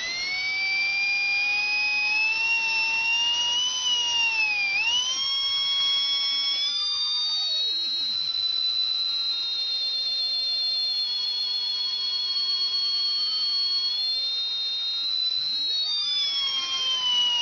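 15-turn silver RC car motor spinning up from slow under a speed controller, giving a high electric whine. The whine rises in pitch over the first few seconds, dips briefly about five seconds in, holds fairly steady, then falls away near the end.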